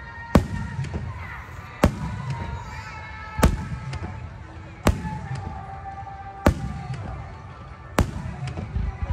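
Fireworks shells bursting, six sharp booms about a second and a half apart, each trailing off in a low echo, with music playing underneath.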